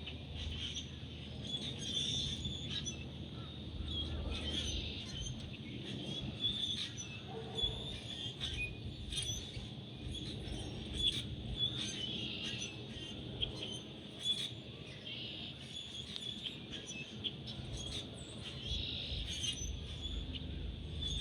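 Birds chirping repeatedly, short high calls over a low steady outdoor background.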